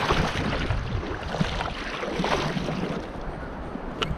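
Steady rushing of wind on the microphone and water around a kayak on a river, with a few faint knocks.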